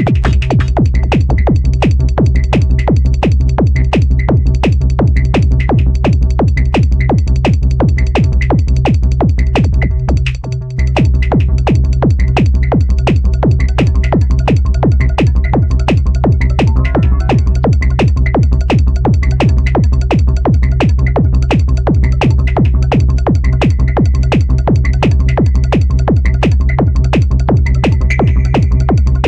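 Electronic dance track played live on a Korg Electribe 2 groovebox: a steady drum-machine beat over heavy synth bass. The low end drops out briefly about ten seconds in, then the beat comes back in.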